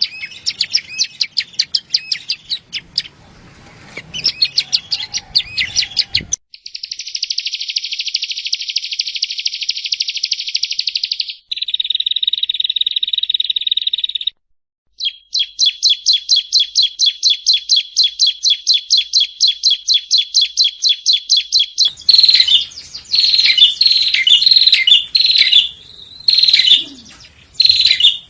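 Yellow-bellied prinia (prenjak rawa) song in several spliced recordings: rapid chirping, then two long buzzy trills, then a steady run of evenly repeated high notes at about four to five a second, and near the end loud chattering phrases.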